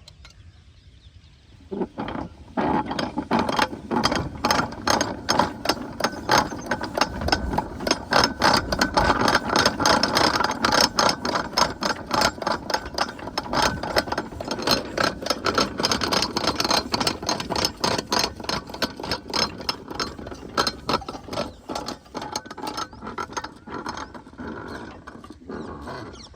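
A 12 hp single-cylinder diesel engine on a water pump set starts about two seconds in with a rapid, even knocking beat, keeps running, and fades away near the end.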